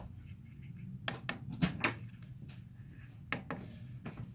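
Buttons clicking on a diesel heater's controller keypad as the timer is set: four quick clicks about a second in, then two more near the end, over a low steady hum.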